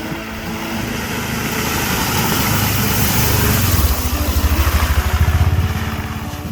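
A vehicle engine running as it drives, growing louder with a low throbbing beat through the middle, then easing off near the end.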